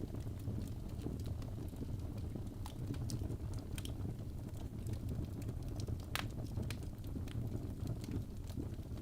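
Wood fire burning in a fireplace: a steady low rumble with irregular crackles and pops, the sharpest pop about six seconds in.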